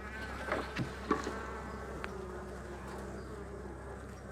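Honeybees buzzing steadily around an open hive during a frame inspection, with a few light knocks in the first two seconds as the frames are handled.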